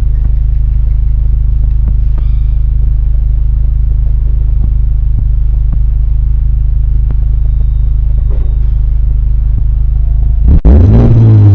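Honda Civic Type R FL5's turbocharged four-cylinder engine idling steadily through a Spoon N1 aftermarket muffler, a low rumble. Near the end it is revved in short blips, its pitch climbing and falling.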